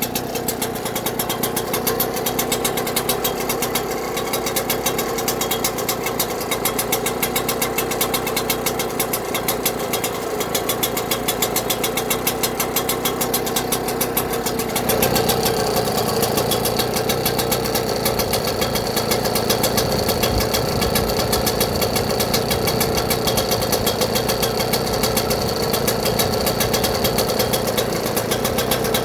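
British Seagull 4 HP two-stroke outboard motor running steadily with a rapid, even firing beat. About halfway through, its note becomes fuller and a little louder.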